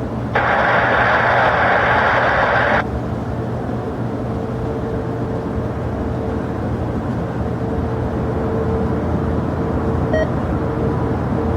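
Air traffic control radio hiss that cuts off abruptly about three seconds in, over a steady rumble of airliner jet engines with a faint steady whine.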